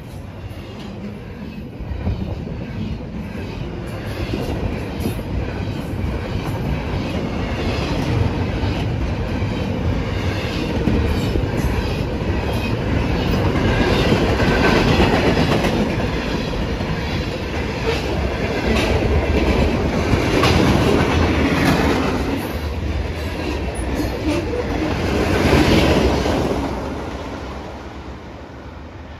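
Norfolk Southern freight cars rolling past at speed, steel wheels clicking in a rapid rhythm over the rail joints and crossing. The sound swells through the middle, then fades near the end as the last cars pull away.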